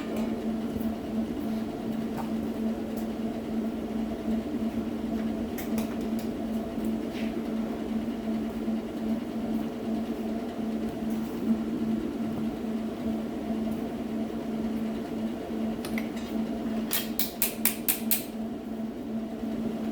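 Steady electric hum of a fan or motor, with a few sharp taps scattered through it and a quick run of about six taps near the end.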